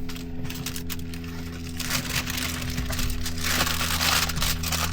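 Aluminium foil being pulled from a new roll and handled, crinkling and rustling in quick irregular crackles that get denser in the second half, over a steady low hum.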